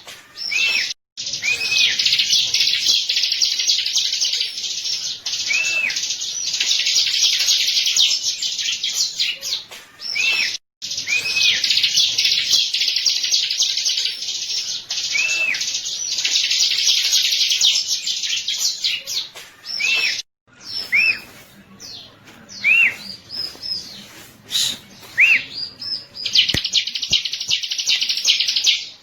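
Bar-winged prinia (ciblek) song: long runs of fast, dense, high chattering with short arched whistled notes mixed in. The song cuts out suddenly three times, and near three quarters through thins to separate calls before a dense run resumes.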